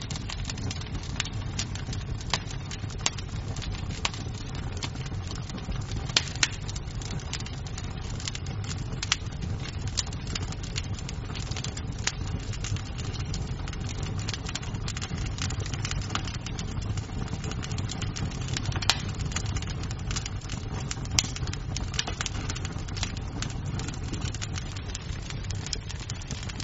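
Wood fire in a fireplace crackling: a steady low rumble of flames with irregular sharp pops and snaps of burning wood, a few of them louder.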